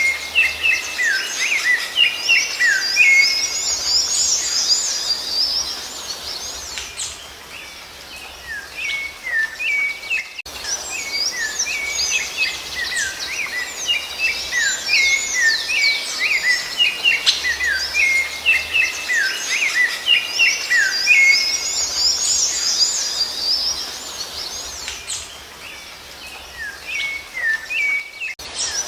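Rufous-bellied thrush (sabiá-laranjeira) song: a dense, steady run of quick whistled and chirping phrases. About ten seconds in, the sound drops out for a moment and the same stretch of song starts over, as in a looped recording.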